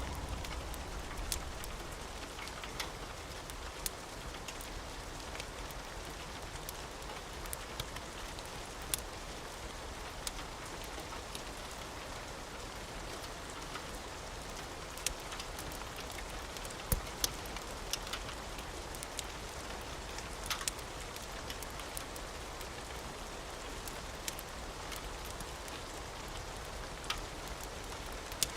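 Steady rain hiss with scattered sharp crackles, like a wood fire popping, and a low rumble of thunder dying away in the first second.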